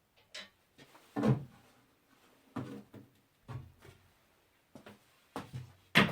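Wooden knocks and clunks from things being handled and set down against wood, about six or seven separate knocks, the loudest about a second in.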